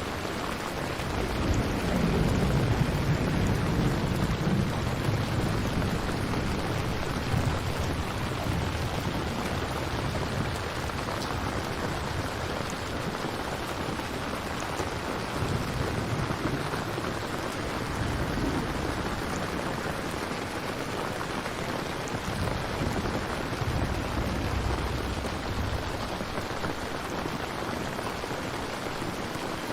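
Steady rain with low rolls of distant thunder, the loudest building about two seconds in and fading over a few seconds, with weaker rumbles further on.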